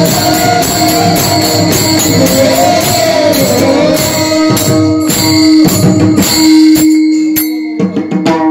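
Pakhawaj drumming in a fast rhythm with jingling hand cymbals over a steady held drone note. The rhythm thins to a few scattered strokes near the end as the piece closes.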